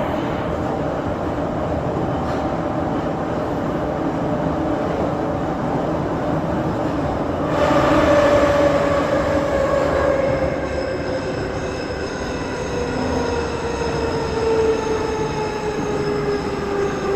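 Moscow Metro 81-717/714 'Nomernoy' train running through the tunnel, steady rumble of wheels on rail. From about halfway a whine and squeal of several tones sets in and slides slowly down in pitch as the train slows on the approach to the station.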